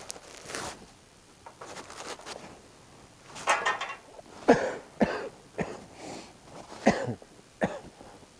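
A person coughing, a run of about six short, sharp coughs starting about three seconds in.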